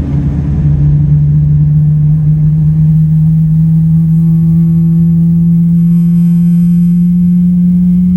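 GE90 turbofan engine of a Boeing 777-300ER spooling up: a loud steady hum that rises slowly in pitch, with fainter higher whining tones rising along with it.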